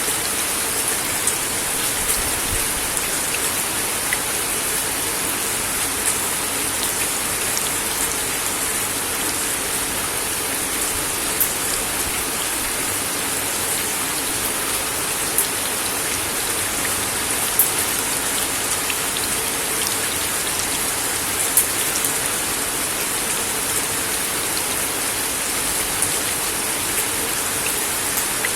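Steady rain falling on a wooden deck: a constant hiss with scattered sharper drips, a few of them louder.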